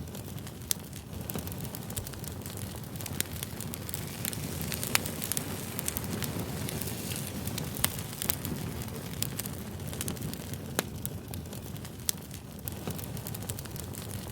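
Campfire crackling: a steady low rumble of burning wood with irregular sharp pops and snaps scattered throughout.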